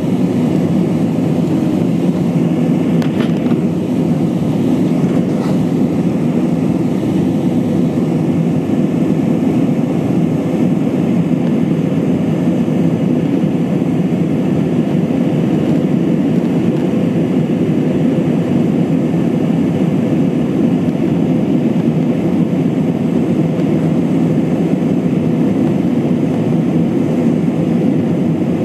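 Steady engine and airflow drone heard inside the cabin of an Airbus A320-232, whose IAE V2500 turbofans run at an even power, with a steady hum in the mix and two faint clicks a few seconds in.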